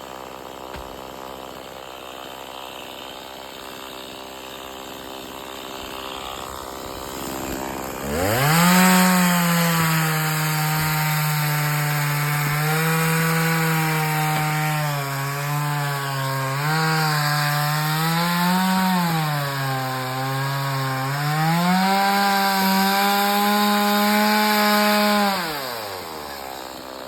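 Two-stroke chainsaw idling, then revving up about eight seconds in and cutting through wood at high speed, its pitch dipping and recovering as the chain loads up in the cut, before it drops back to idle near the end.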